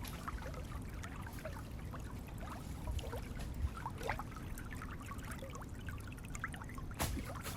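Water trickling, with many small splashing plops, and one sharp knock about seven seconds in.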